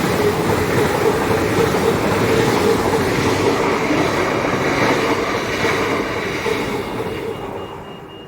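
Passenger trains passing through the station without stopping: a loud rush of wheel and rail noise with a steady hum, dying away near the end.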